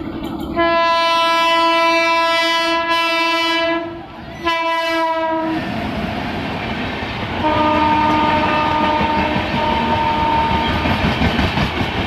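Train horn sounding a long blast of about three and a half seconds, then a short second blast, followed by the steady noise of the train running through with a fainter horn tone sounding on and off.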